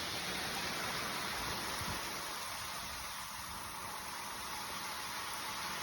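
Heavy rain falling steadily, an even hiss that holds throughout.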